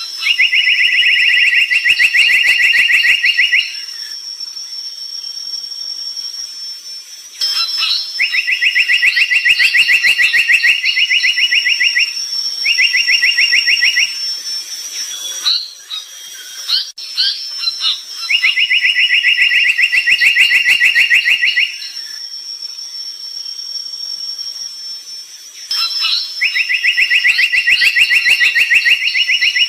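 Brown tali pocong bird singing vigorously: loud, very rapid buzzing trills on one even pitch, each lasting one to four seconds, repeated five times with short breaks and sounding like an electronic alarm. A thin, steady high whine and shorter chirps run underneath.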